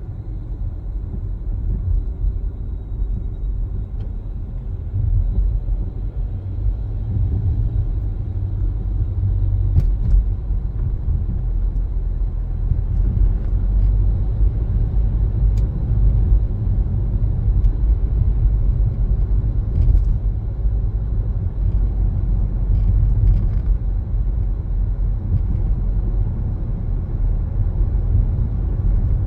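A car driving: a steady low rumble of road and engine noise, with a few faint ticks here and there.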